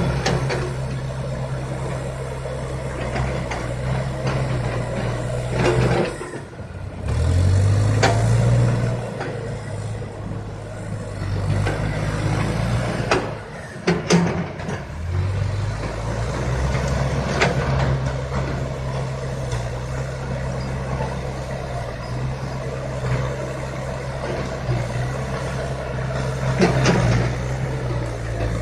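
CASE backhoe loader's diesel engine running and working, its pitch rising and falling as it takes load, with sharp knocks now and then.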